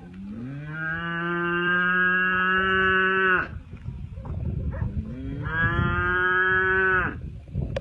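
A man imitating a cow's moo with his voice: two long moos, each sliding up at the start and then held steady, the second shorter than the first.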